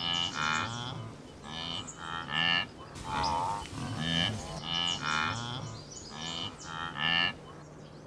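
Repeated animal calls: a string of short pitched cries, one or two a second, stopping shortly before the end.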